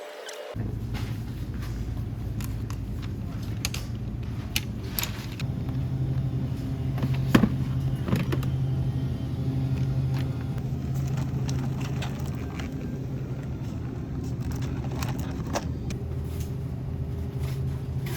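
Steady low mechanical hum starting about half a second in, with scattered clicks and knocks over it.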